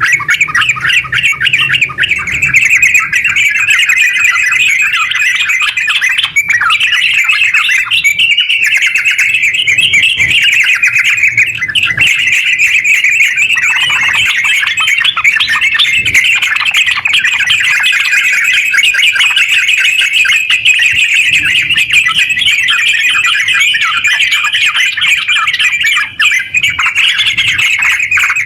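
Yellow-vented bulbul (terucuk) singing a long, unbroken run of rapid, bubbling chattering notes, the fast 'ngerpel' song that keepers play to stir other terucuk into singing.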